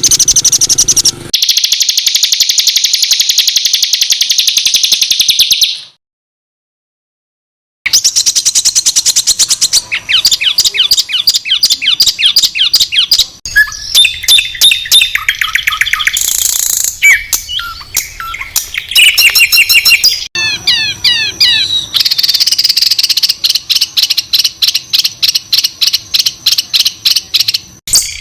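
Songbird song of the harsh, high-pitched rapid 'tembakan kasar' kind used as tutor song for contest birds. A dense buzzing trill runs for about six seconds, breaks off into nearly two seconds of silence, then gives way to fast chattering strings of repeated notes and quick rising and falling whistled phrases.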